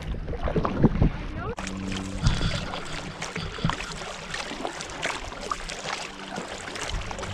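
Kayak paddle strokes: water splashing and dripping off the paddle blades and lapping against the kayak hull, in many small irregular splashes.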